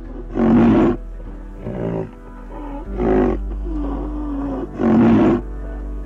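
A large animal roaring or growling several times, each call about half a second long and coming every second or two, over background music with a steady low drone.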